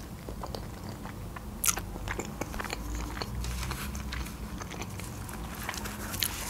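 Close-miked mouth sounds of a woman chewing a mouthful of spaghetti: scattered small smacks and clicks, one louder about two seconds in.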